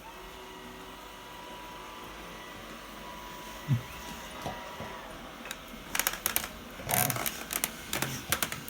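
Deebot robot vacuum running with a steady whir and a faint high whine. From about six seconds in, a quick run of sharp clicks and rattles joins it.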